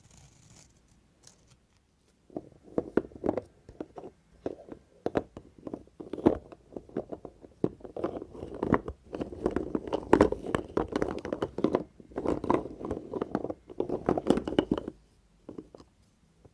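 Knife cutting through dry bar soap, making dense, crunchy crackling and scraping. The cutting starts about two seconds in and stops shortly before the end.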